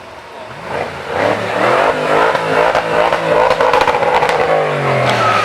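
A supercar's engine revving hard as it accelerates past, its note climbing about half a second in and then falling as it goes by.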